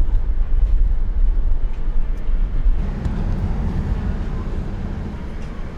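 Steady low rumble of a moving vehicle, a little louder in the first few seconds and easing off after that.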